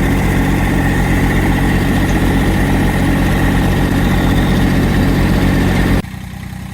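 Tractor engine running steadily under way, a constant low pulsing beat. About six seconds in it drops suddenly to a quieter running.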